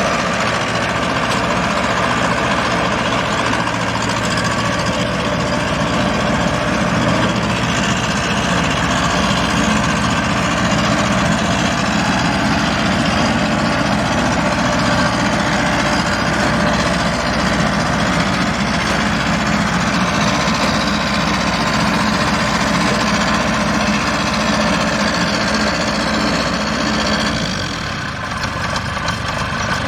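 Combine harvester engine running steadily, with a brief dip and change in its sound near the end.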